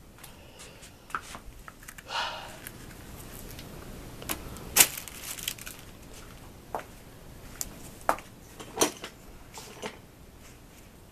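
Scattered light clicks and taps in a small room, with a short soft rustle about two seconds in.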